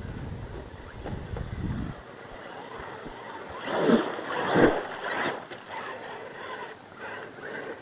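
Mud truck splashing through mud and water, with two loud surges of splash and motor about four seconds in.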